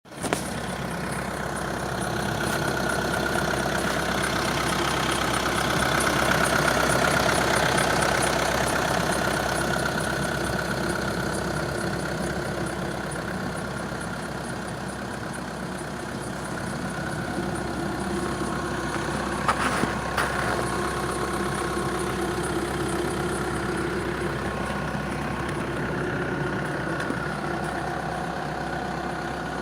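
Volkswagen Group 1.6 TDI diesel engine idling with a squeal on top whose cause the owner does not know. A few sharp clicks come about two-thirds of the way through.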